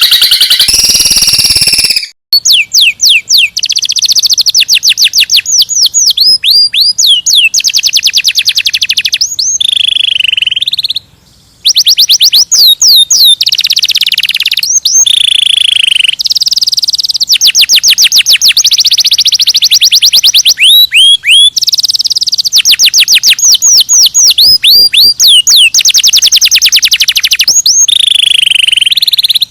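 Songbird song of the kind used as 'isian' training material: loud, fast runs of sharp, repeated high chirps, broken by short pauses.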